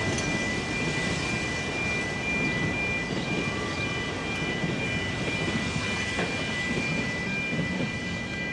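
Steady rumble of a Ffestiniog Railway narrow-gauge train running away into the distance, with a thin steady high whine over it.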